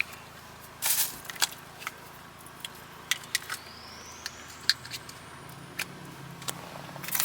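Scattered small clicks, taps and rustles of things being handled inside a car, with a faint rising whine around the middle and a low steady hum in the second half.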